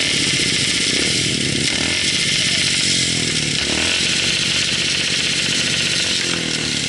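Motorcycle engine running while riding, its pitch shifting a few times, under a steady rush of wind on the camera microphone.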